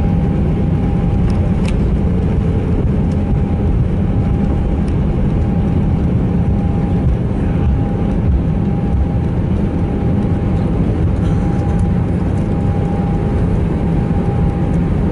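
Cabin noise of an Airbus A319 rolling along the ground after landing: a steady low rumble of engines and wheels with a thin steady whine over it.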